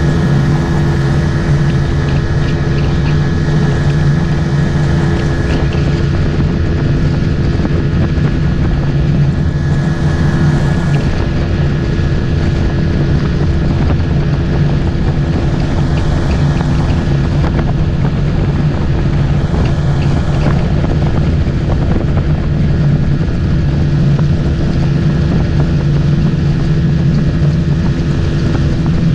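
Motorboat engine running at a steady speed, with a constant hum and the rush of the hull moving over water.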